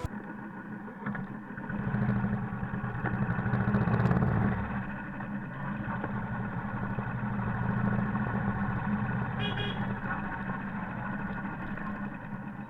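Motorcycle engine running as the bike rides off. It builds up from about two seconds in, is loudest around four seconds, then settles to a steady run.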